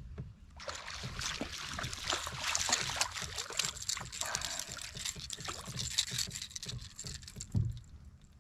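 Water splashing and sloshing beside a kayak, starting suddenly about half a second in and running on for several seconds with many sharp crackles, over dull knocks against the plastic hull.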